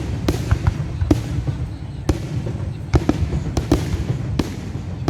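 Fireworks going off: a string of irregular sharp bangs and cracks over a continuous low rumble.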